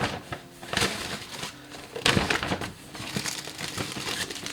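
Grocery bags and packaging crinkling and rustling in irregular bursts as items are handled and taken out, loudest about two seconds in.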